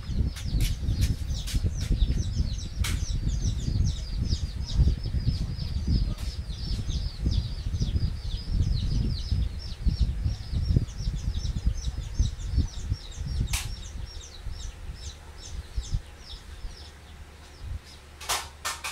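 Birds chirping in a fast, steady run of short high chirps, about four or five a second, that die away near the end. Under them runs a loud, irregular low rumble, with a few sharp clicks.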